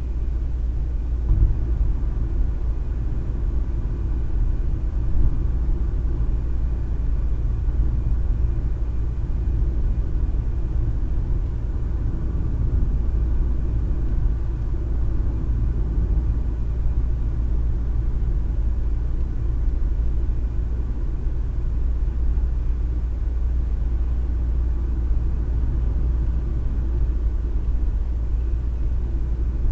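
Steady low rumble of a car driving along, with road and engine noise heard from inside the cabin.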